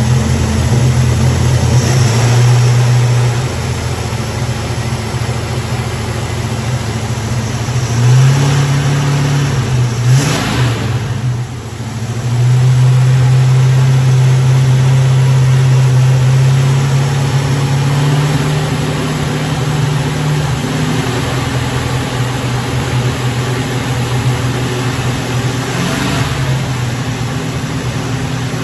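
Mopar V8 engine running, its throttle worked by hand at the carburetor linkage: the revs rise and fall several times, are held up for several seconds in the middle, then settle back to a lower speed.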